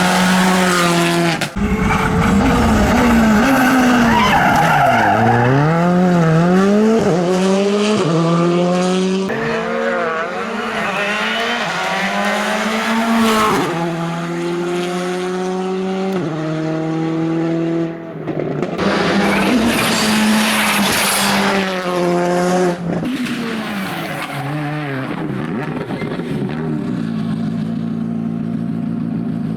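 Rally car engine at competition speed, revving up and dropping back again and again as it shifts through the gears, with tyre squeal and skidding noise at times.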